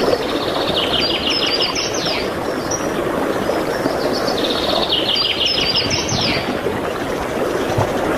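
A songbird sings the same phrase twice, about a second in and again about four seconds in. Each phrase is a fast trill of repeated notes followed by a few quick falling slurs. A steady rushing background noise runs underneath.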